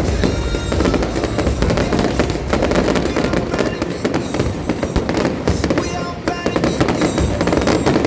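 Fireworks bursting and crackling in rapid, dense succession, with loud music playing underneath.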